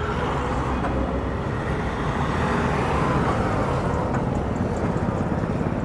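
Road traffic on a city street: a steady roar of engines and tyres, with a vehicle passing close that swells and fades in the middle.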